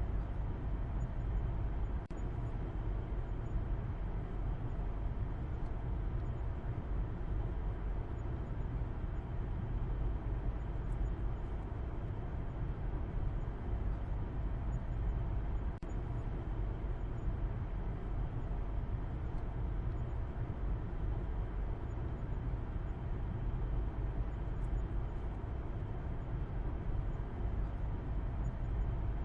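Steady low rumble of a car driving: engine and road noise running evenly, with no change in speed.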